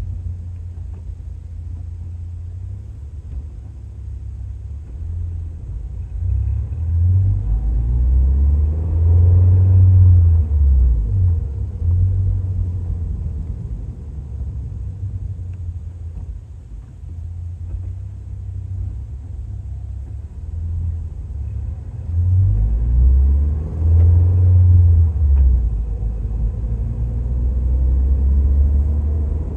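Exhaust and engine of a 2023 Toyota GR86 with a Fujitsubo A-R catback exhaust, its 2.4-litre flat-four giving a deep, steady rumble while driving. Twice, about a quarter and about three quarters of the way through, it gets louder and rises in pitch as the car accelerates, then settles back.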